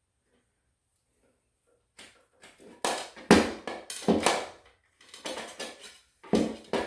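Irregular knocks and scrapes of hard objects being handled against the wall or floor. They start about two seconds in, and the loudest come around three to four seconds in and again near the end.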